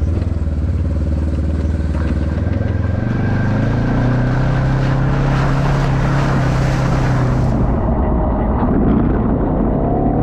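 Polaris General 4 UTV's twin-cylinder engine running under way on a trail. Its pitch steps up about three seconds in as it speeds up, and it climbs again near the end.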